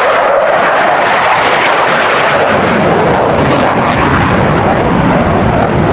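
A fixed-wing aircraft's engine running loud and steady.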